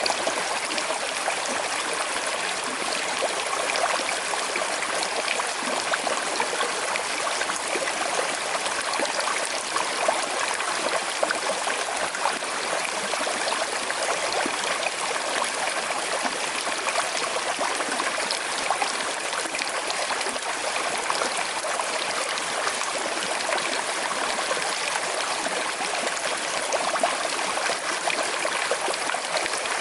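Small river flowing over stones with a slight current, a steady rush of water with fine trickling and splashing.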